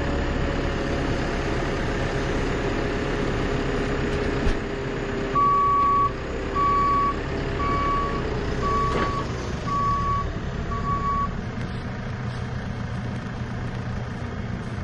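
JCB machine's diesel engine running steadily while its reversing alarm beeps six times, about once a second, in the middle stretch.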